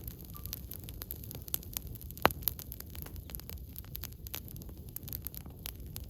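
Campfire of burning firewood crackling: frequent small snaps, with one sharp pop a little over two seconds in, over a steady low rumble.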